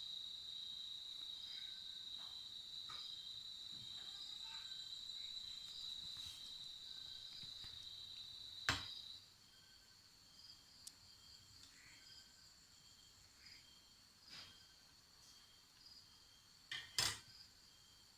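Insects chirping in a steady, high, pulsing trill, fainter after about nine seconds. A sharp knock comes about nine seconds in, and a short cluster of knocks comes near the end.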